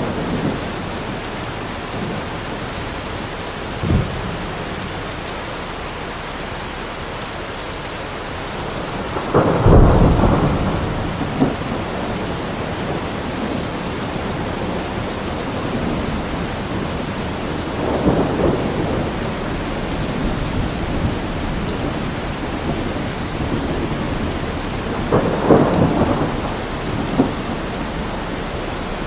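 Steady rain falling, with several rumbles of thunder rolling over it; the loudest rumble comes about ten seconds in, and smaller ones follow later.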